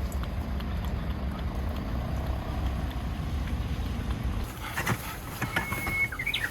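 Wind buffeting the microphone, a gusty low rumble under a rushing hiss; about four and a half seconds in it drops away, a few sharp clicks follow, and near the end comes a short high whistle that holds one pitch and then slides upward.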